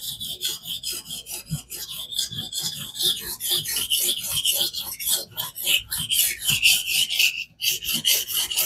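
Knife edge being sharpened on a King water stone in a fixed-angle guided sharpener: quick back-and-forth scraping strokes of stone on steel, with a brief pause about seven and a half seconds in.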